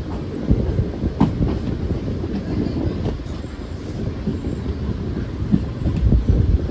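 A moving train's wheels rumbling along the rails, with irregular clickety-clack knocks. The rumble swells near the end.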